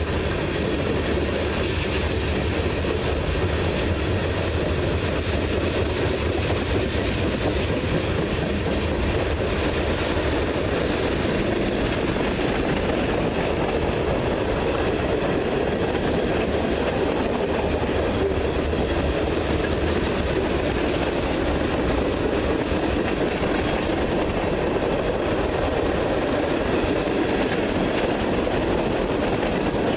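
A train rolling past on the rails: a steady, unbroken noise of wheels on track with no change in level.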